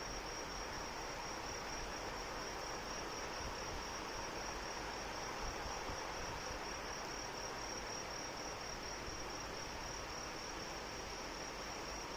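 Crickets chirping in a steady, rapid high trill over the even hiss of falling rain.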